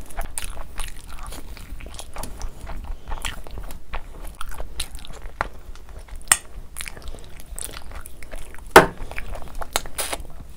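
Close-miked eating sounds of a person biting into tandoori chicken and chewing it: a steady stream of short, wet mouth clicks and smacks. There is one sharp, louder smack about nine seconds in.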